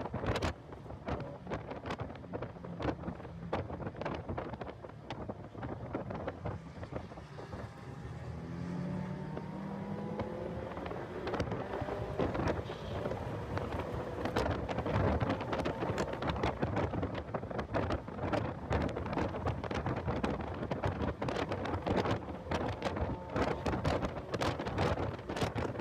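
Heavy wind buffeting on the microphone of a car at speed on a race track, crackling and rumbling. Under it the car's engine is faintly heard, rising in pitch as it accelerates from about 8 to 14 seconds in.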